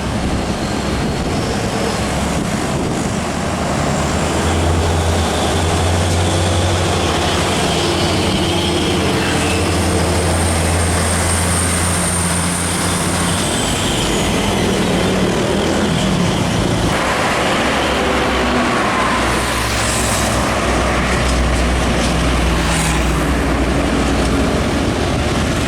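Heavy diesel trucks running past on a road, with low engine tones over steady road and tyre noise. The engine note changes as one truck gives way to the next about two-thirds of the way in, and a high whistle drops away in pitch about halfway through.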